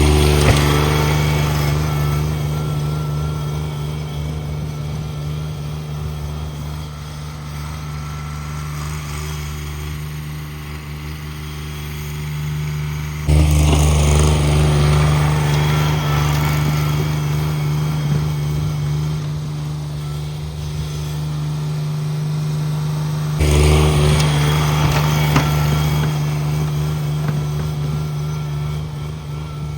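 Cub Cadet 1782 garden tractor's Onan twin-cylinder engine running steadily. Its sound gets suddenly louder about 13 seconds in and again about 23 seconds in, easing off slowly after each.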